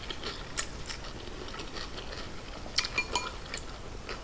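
Quiet chewing of a mouthful of pho rice noodles, with a few short sharp clicks and smacks, most of them together about three seconds in.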